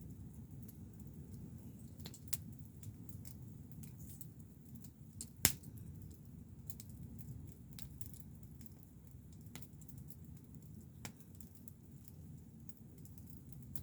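Wood campfire crackling: scattered sharp pops and snaps over a steady low rumble, with one louder pop about five and a half seconds in.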